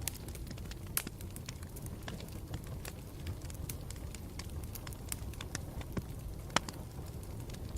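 Campfire burning with a steady low rumble and irregular sharp crackles and pops, two of them louder: about a second in and near the end.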